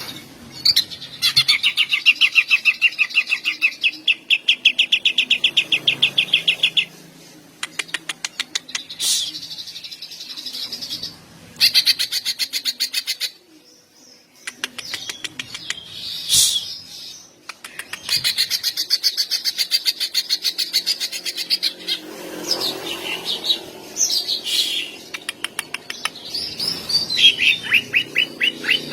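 Cucak ijo (green leafbird) singing at full volume in long, rapid trills of repeated sharp notes (the "long shots" prized by bird keepers), broken by short pauses. Toward the end the song turns to varied whistled phrases.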